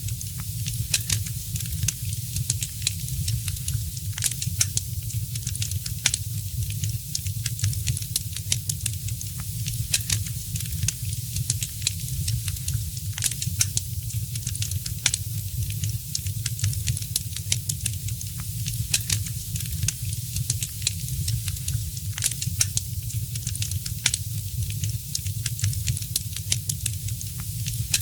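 Fireplace fire crackling, with frequent irregular sharp pops over a steady low rumble and hiss.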